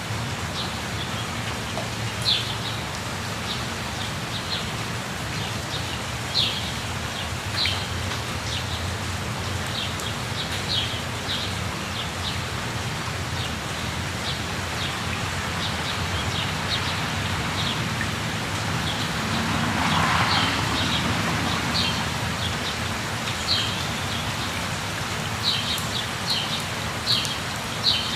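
Steady rush of a waterfall with birds chirping in short, sharp calls over it, thickest near the end. The rushing swells briefly about twenty seconds in.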